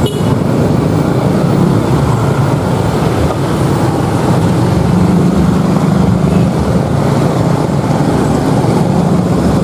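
Passenger train's coaches rolling over the rails as the train draws away, a steady loud rumble.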